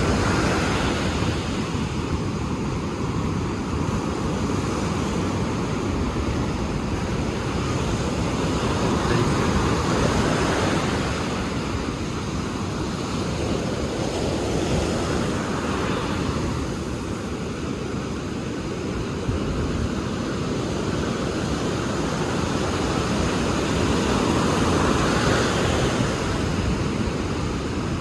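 Ocean surf: waves breaking and washing in, swelling louder every several seconds, with wind rumbling on the microphone.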